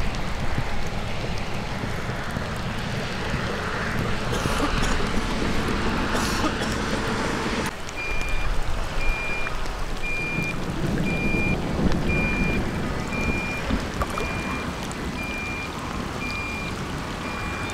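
Rain and wind noise over the microphone, with low rumbling. After a cut about eight seconds in, a short high electronic beep repeats about once a second over the rain.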